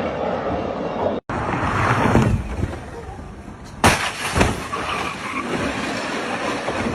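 Road and wind noise from a moving vehicle, with a sharp bang about four seconds in and a second, smaller one half a second later.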